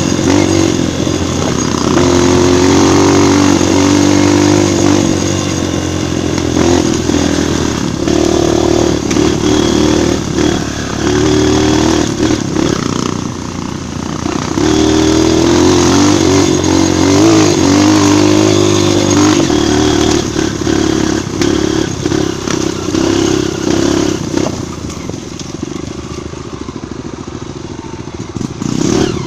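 Dirt bike engine running under load on a trail ride, its revs rising and falling with throttle and gear changes. It gets quieter over the last few seconds.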